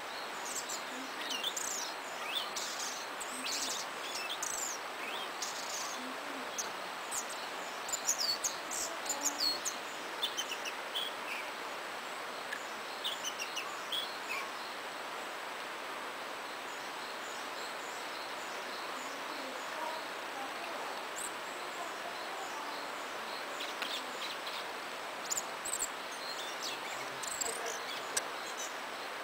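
A small stream murmuring steadily, with a willow tit's short, high calls coming in clusters, most of them in the first ten seconds and again near the end.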